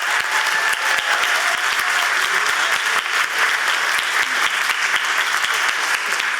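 Audience applauding: many hands clapping in a steady, dense clatter.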